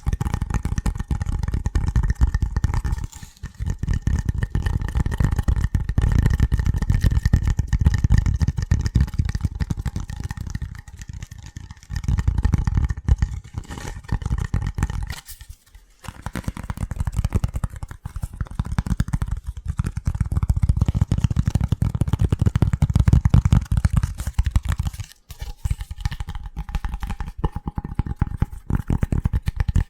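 Rapid, hard finger tapping on a hard object: a dense stream of quick knocks with a heavy low thud, stopping briefly three times.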